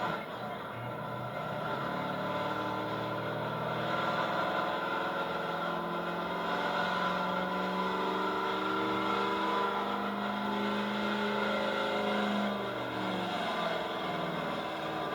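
Altered gas pulling truck's engine running hard under load, pulling a sled. Its pitch climbs slowly for about ten seconds, then falls away near the end as the pull winds down.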